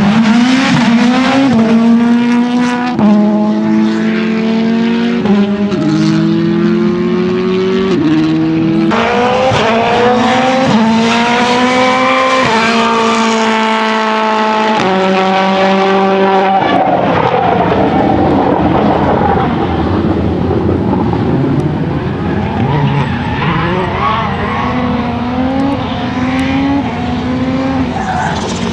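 Citroen C3 WRC Plus rally car's 1.6-litre turbocharged four-cylinder accelerating hard through the gears, the pitch climbing and dropping back at each upshift every second and a half or so. Through the second half it runs lower and rougher, with short blips of revs.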